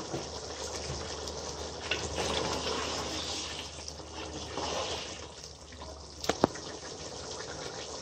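Meat and spice masala frying and bubbling in a steel pot, stirred with a wooden spoon. Two sharp knocks come about six seconds in.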